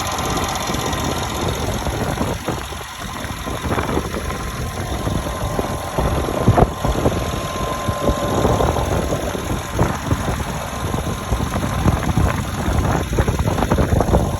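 The twin-turbo 5.5-litre V8 of a 2016 Mercedes-Benz E63 S AMG idling steadily while still cold from a cold start, with a sharp click about halfway through.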